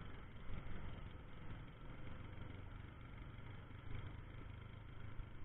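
Vehicle engine running steadily at low revs with a rumbling, noisy ride as the vehicle starts down a hill.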